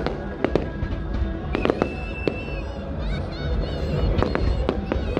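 Fireworks going off: a string of sharp bangs and cracks, with a steady whistle about two seconds in, over a continuous low rumble of distant bursts.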